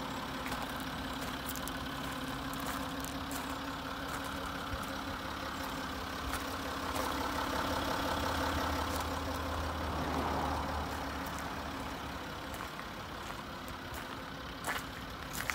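A car engine idling steadily, with a low hum that swells for a few seconds in the middle. Footsteps crunch on gravel throughout.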